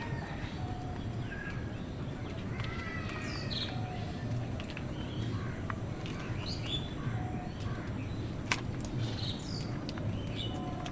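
Crows cawing among the chirps of smaller birds: many short, scattered calls over a steady low background rumble. One sharp click about eight and a half seconds in.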